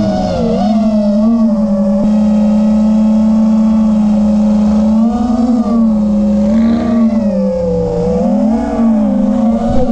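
5-inch FPV quadcopter's brushless motors and tri-blade propellers whining steadily, the pitch wavering up and down with throttle changes in the second half.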